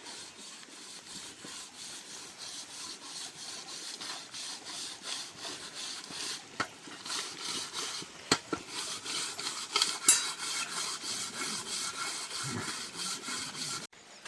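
Rhythmic rasping scrape, several short strokes a second, with a few sharper clicks in the middle; it starts and cuts off abruptly.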